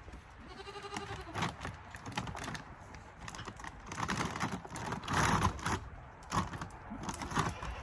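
Irregular crunching clicks and rustles, with a short pitched call that rises and falls about half a second in and a louder rush of noise about five seconds in.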